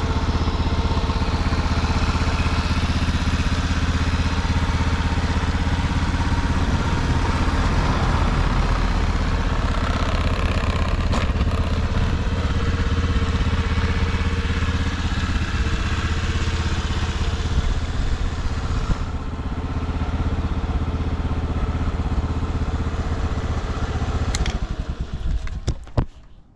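Honda Motra's 49 cc single-cylinder four-stroke engine idling steadily and quietly, with no abnormal noise. It shuts off near the end, followed by a few sharp clicks.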